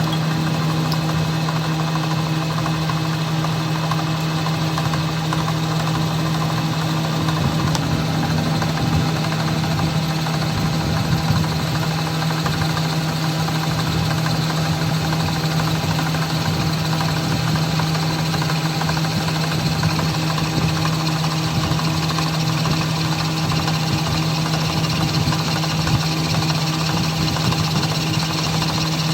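A machine running steadily with a constant low hum and a busy mechanical rattle, unchanging throughout.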